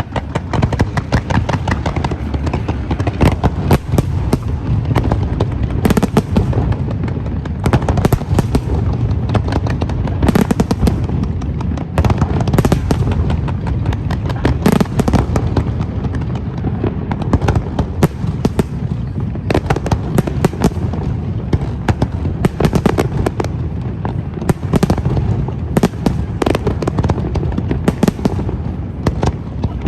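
A fireworks display going off without pause: many sharp bangs and crackles, one after another, over a continuous low rumble of shell bursts.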